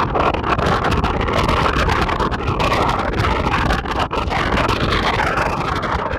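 A train running through a station, with strong gusty wind buffeting the microphone.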